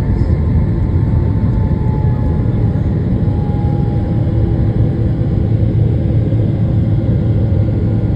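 Boeing 777-300ER cabin noise during the climb after takeoff: the steady, even rumble of the GE90 engines and airflow, with a faint whine slowly falling in pitch.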